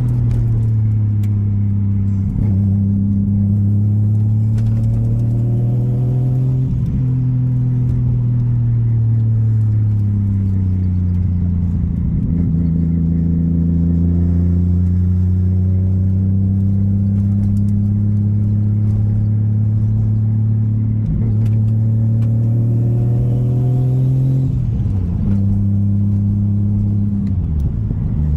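Turbocharged RB30DET straight-six in an R33 Skyline running hard under load, its note climbing slowly and holding, with a few brief dips in pitch marked by short sharp bursts of noise.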